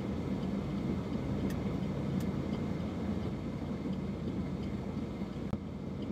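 A car idling, heard from inside its cabin as a steady low hum.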